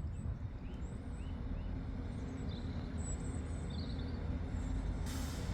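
Open-air background at a railway platform: a steady low rumble with small birds chirping now and then. There is a brief hiss near the end.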